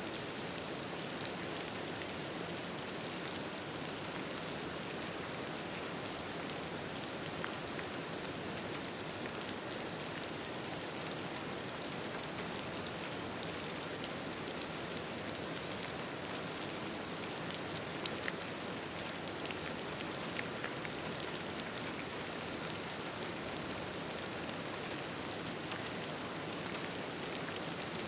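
Steady rain falling, an even hiss with many scattered small ticks of drops.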